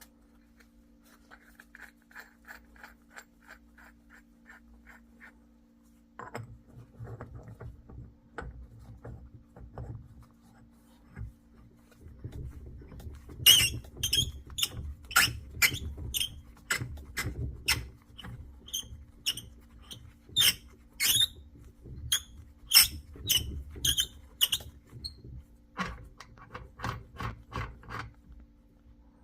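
Hand tools working on metal engine parts: a short run of light, even clicks, then many sharp, irregular metallic clicks and knocks from about halfway through.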